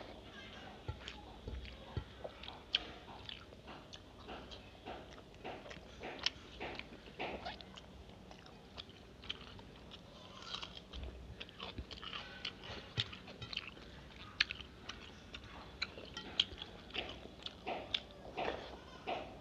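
A person chewing big mouthfuls of rice mixed with egg curry eaten by hand, with many irregular wet mouth clicks and smacks.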